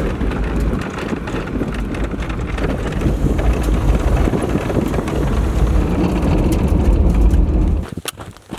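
Off-road vehicle driving on a dusty dirt road: a steady low engine and tyre rumble with wind noise over it, cutting off abruptly near the end.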